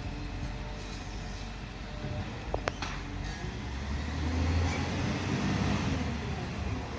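Heavy waste truck's diesel engine running with a low rumble, growing louder about four seconds in, with a brief high-pitched squeak a little before three seconds.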